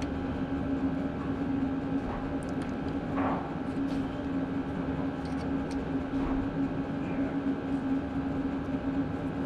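A small machine's steady motor hum at one unchanging pitch, with a few faint clicks and a short scrape about three seconds in.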